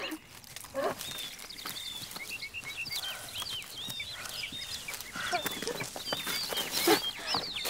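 Birds chirping, with many short high calls throughout. A few lower, pitched cries come in about a second in and again around five to seven seconds in.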